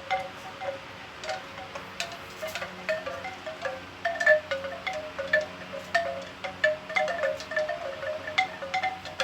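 Bamboo wind chime clattering, its tubes knocking together at irregular intervals in short pitched hollow tones, several strikes a second.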